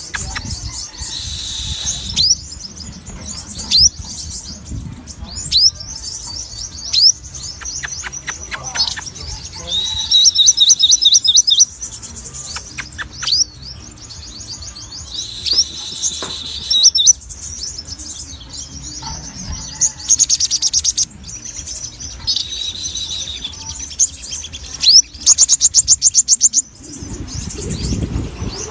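A sogon songbird singing vigorously, one phrase after another: rapid trilled rattles, sharp down-sweeping whistles and held high notes. A low rumble comes in near the end.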